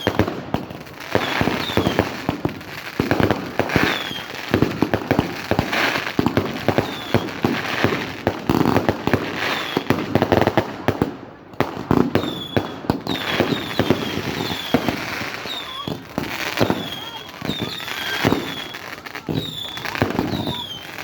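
Fireworks display going off: a dense run of bangs and crackles, with short high whistles among them.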